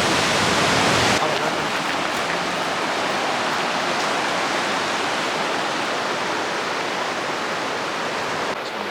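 Steady rushing of a waterfall, dropping a little in level about a second in and then holding even.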